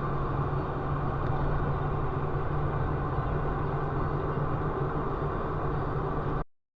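Steady vehicle engine and road noise with a constant low hum, cutting off abruptly near the end.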